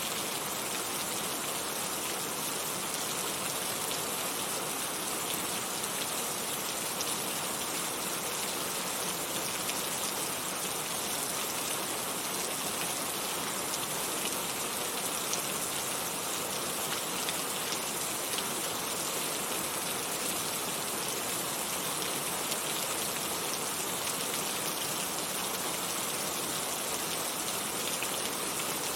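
Heavy rain falling steadily, an even hiss of drops on surfaces with no let-up or change.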